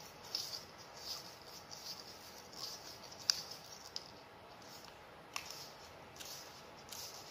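Faint rustling and a few sharp plastic clicks as PVC plumbing fittings are handled and fitted together, the sharpest click about three seconds in.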